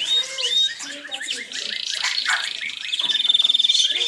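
Canaries singing: short rising chirps, then a fast trill from about a second and a half in that becomes louder, with coarser pulses, near the end.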